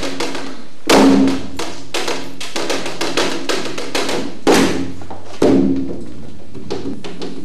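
Live percussion music: quick, dense strikes on wood-block-like percussion, several a second, over a faint steady low tone. Three heavier low thumps land about one second in, about four and a half seconds in and about five and a half seconds in.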